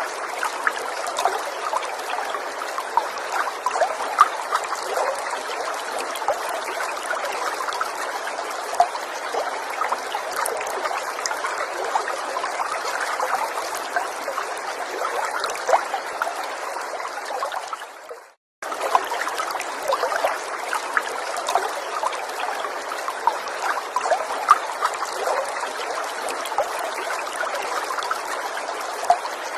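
Small forest stream trickling and burbling steadily, with many small splashes through the flow. About two-thirds of the way through it fades and cuts out for a moment, then resumes.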